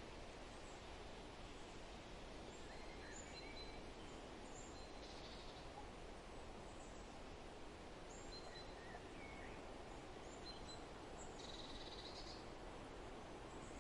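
Faint outdoor ambience: a steady background hiss with scattered short bird chirps, and two brief buzzy trills, about five seconds in and again near twelve seconds.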